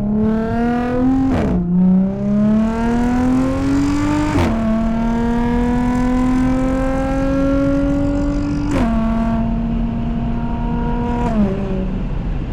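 Audi supercharged 3.0-litre V6 with an AWE Touring exhaust and AWE intake pulling hard under full acceleration. The engine note climbs, drops sharply at upshifts about a second and a half in and again about four seconds in, then climbs once more. Near nine seconds the pitch steps down and the engine settles to a steady note.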